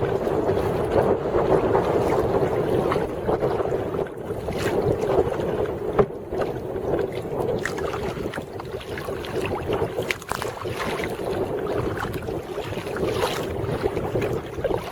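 Water sloshing around a kayak under way, with wind rushing on the microphone and a few sharp splashes at uneven intervals.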